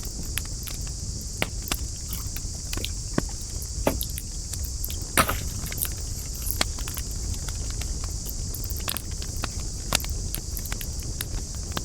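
Wood fire crackling: irregular sharp pops and snaps, one louder snap about five seconds in, over a steady low rumble and a steady high hiss.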